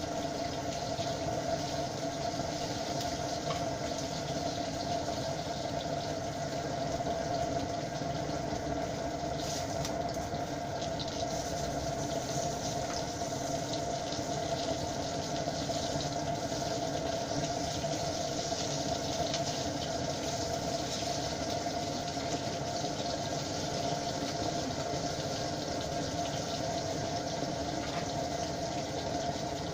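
Pieces of crucian carp frying in oil in a pan, a steady sizzle, under a steady mechanical hum with a held tone.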